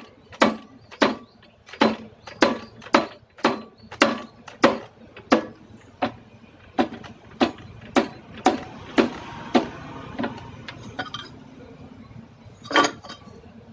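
Sharp, regular knocks, about one every half second or so, that space out and stop about ten seconds in, followed by one more knock near the end.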